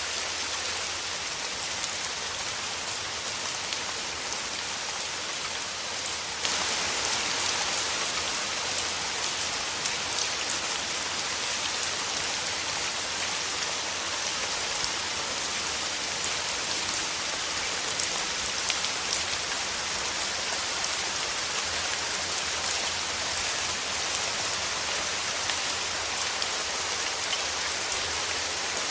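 Steady rain falling, with a dense hiss and scattered individual drops. The rain grows a little louder and brighter about six seconds in.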